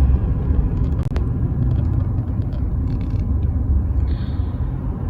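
Pickup truck driving, a steady low rumble of engine and road noise, with a single light click about a second in.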